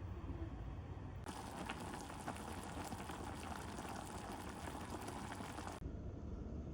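Hot pot broth bubbling at a simmer, a fine crackling bubble over a low steady hum. The bubbling cuts in about a second in and stops abruptly near the end.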